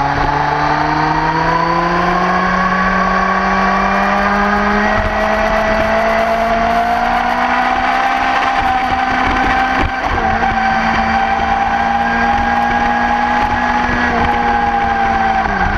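Motorcycle engine running hard at track speed. Its pitch climbs slowly for the first several seconds, holds, then dips sharply near the end, over a steady rush of wind noise.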